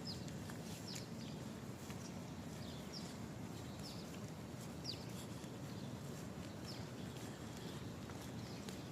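Steady hiss of falling rain, with a bird giving short, high, downward-sliding chirps about once a second throughout.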